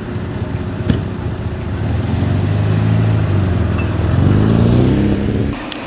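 Nissan 240SX engine running under way, its pitch steady and then rising as the car accelerates, before stopping abruptly near the end. A sharp click about a second in.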